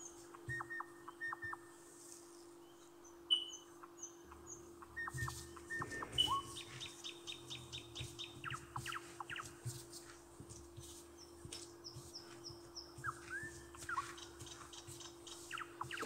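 Small birds chirping in short, high, quickly repeated notes and falling sweeps, over a steady low hum. Soft thuds come from dough being kneaded and folded by hand on a floured plastic tablecloth.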